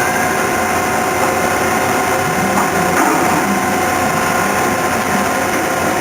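Okuma MCV16A double column machining center running, a steady mechanical hum and whine with several steady tones.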